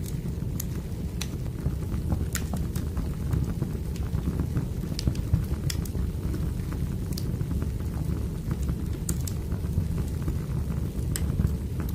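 Wood fire crackling: a steady low rumble of burning logs with irregular sharp pops and snaps scattered throughout.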